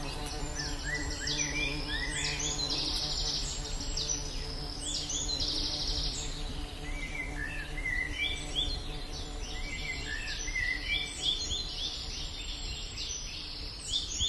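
A chorus of insects buzzing in many short, repeated high-pitched pulses, mixed with short rising chirps, among large old trees. This is the 'strange sound' in the trees.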